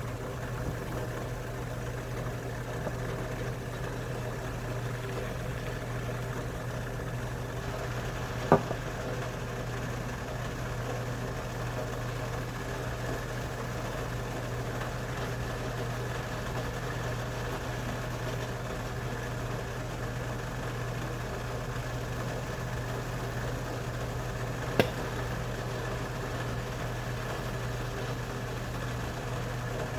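Steady low mechanical hum with several steady tones in it, broken by two sharp clicks, one about a third of the way in and one near the end.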